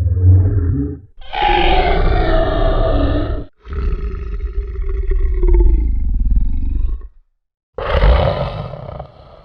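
A run of separate short sound effects, each cut off abruptly into silence, with animal-like roars or growls; four clips in turn, the last one fading away.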